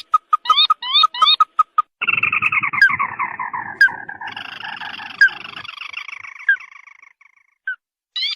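Ruddy-breasted crake calls, played as a bird lure: a few short clipped notes, then about two seconds in a long trill that slides down in pitch and fades over about five seconds, followed by scattered single notes and a short burst of rising notes near the end.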